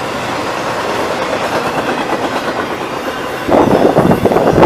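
Intermodal freight train's flatcars, loaded with truck trailers, rolling past with a steady rumble and clickety-clack of wheels on rail. About three and a half seconds in, it gives way abruptly to a louder, gusting rush.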